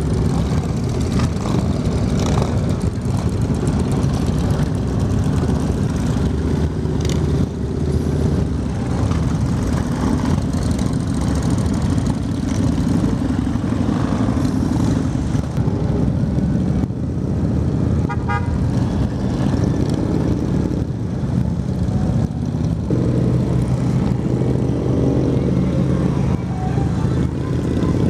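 Honda Shadow V-twin cruiser running under the rider, mixed with the engines of a large group of motorcycles riding together. A horn toots briefly about eighteen seconds in, and the engine note rises and falls near the end.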